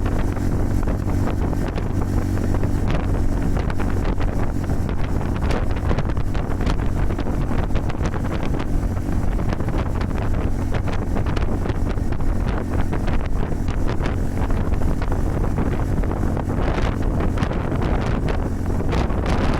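Honda Super Cub 110's single-cylinder four-stroke engine running at a steady cruise under heavy wind buffeting on the microphone from strong crosswind.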